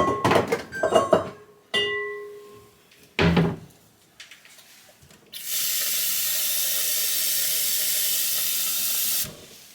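A bowl clattering and ringing briefly, then a thump, then a kitchen tap running steadily into the bowl for about four seconds before being shut off.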